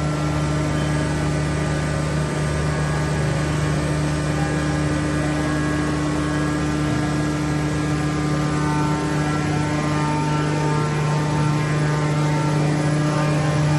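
CNC machine tools running in a machine shop: a steady hum with several steady whining tones over an even hiss, without a break.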